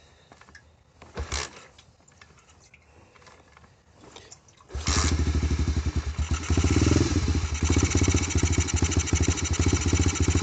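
Apollo dirt bike engine being cold-started on choke: a short knock about a second in, then the engine catches nearly five seconds in and keeps running steadily, with a brief rise in revs about two seconds after it fires.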